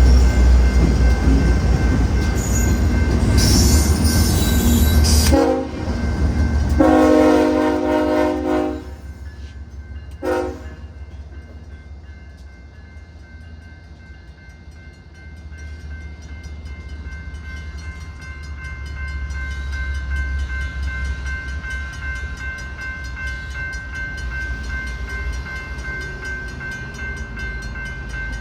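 BNSF SD70ACe diesel locomotive running close by with a heavy rumble, its air horn sounding a short blast and then a longer one about five to nine seconds in, with a brief toot near ten seconds. After that the engine rumble drops and a Safetran crossing bell keeps ringing steadily, still sounding healthy though starting to wear.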